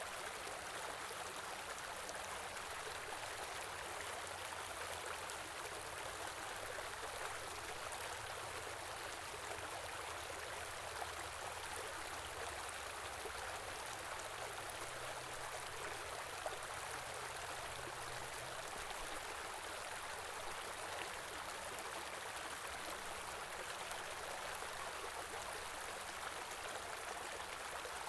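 Small stream flowing over rocks in winter, a steady rushing and gurgling of water with a few faint droplet ticks.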